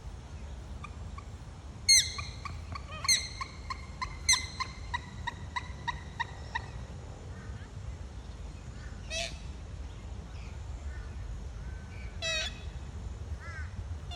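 A bird calling: a run of short, harsh notes that starts loud about two seconds in, then slows and fades over about five seconds, followed by two more single calls later on.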